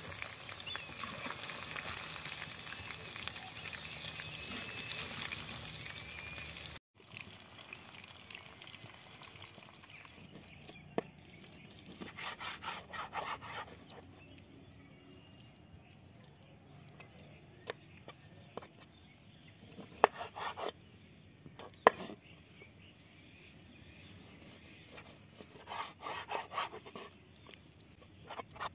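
Chicken pieces deep-frying in a pan of hot oil, a steady sizzle, that stops abruptly about seven seconds in. After it, quieter knife work on a wooden chopping board: a few sharp knocks of the blade on the board and short bursts of cutting and scraping.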